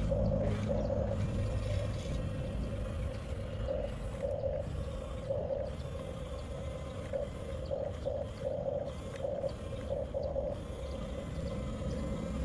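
Electric drive motors of a 1/14-scale Huina RC bulldozer whining in short on-and-off pulses as the controls are worked, over a steady low rumble.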